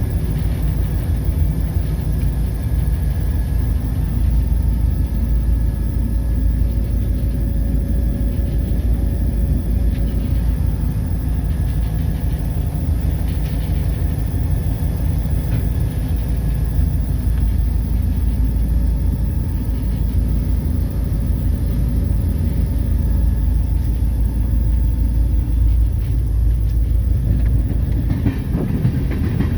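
Steady low rumble of a moving EMD SD40-2 diesel-electric locomotive, its 16-cylinder two-stroke engine and wheels on the rails, heard from a camera mounted outside on the short nose, with a faint steady tone over it.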